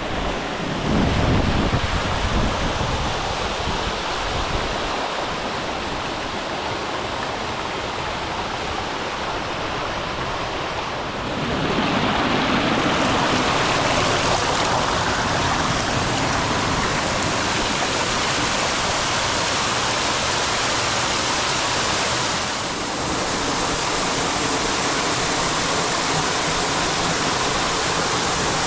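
Waterfall pouring into a rocky gorge pool: a steady rush of falling water that turns louder and brighter about eleven seconds in.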